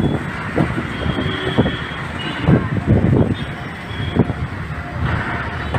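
Road vehicle running, with a dense low rumble and irregular bumps and thumps.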